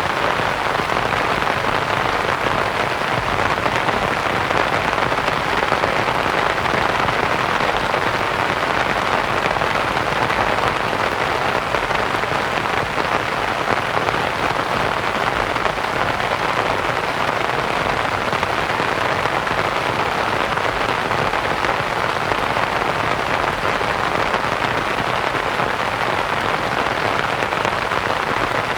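Steady rain pattering on a canvas tent, blended with a soft, even white-noise hiss.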